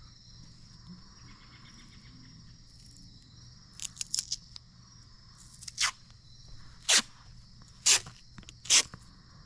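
Tape being pulled off the roll in short rips: a quick cluster of small rips about four seconds in, then four louder single rips roughly a second apart.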